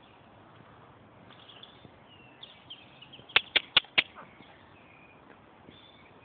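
Birds chirping faintly over a low outdoor hiss, with four sharp clicks in quick succession about three seconds in.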